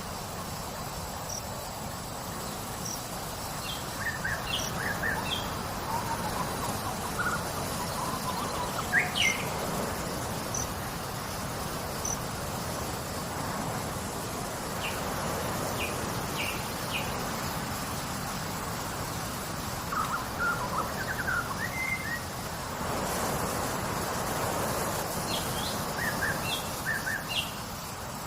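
Nature ambience: a steady wash of water noise with small birds giving short, scattered chirps and calls throughout, over a faint, constant high insect drone.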